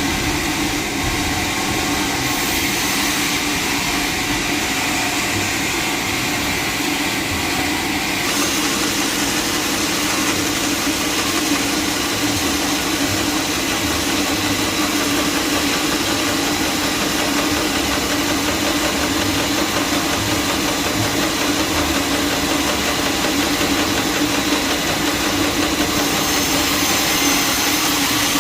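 Sawmill machinery running steadily, an engine-like drone with a hum, its higher hiss brightening about eight seconds in.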